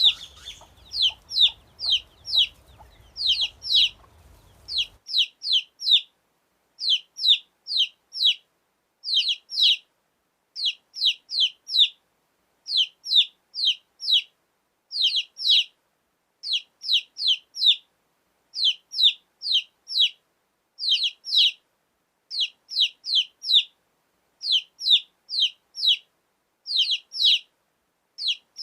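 Baby chicks peeping: short, high-pitched peeps, each dropping in pitch, in quick runs of three or four with brief pauses between, repeating steadily.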